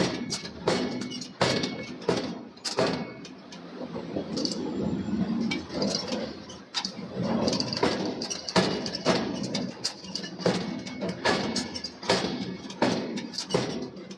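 Repeated hammer blows on hot steel being forged, about one or two strikes a second, thinning out for a few seconds in the middle.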